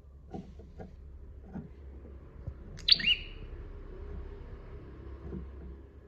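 Prinia (prenjak) giving one loud, sharp two-note call about three seconds in, each note sweeping quickly upward. A low steady rumble and a few faint lower chirps sit underneath.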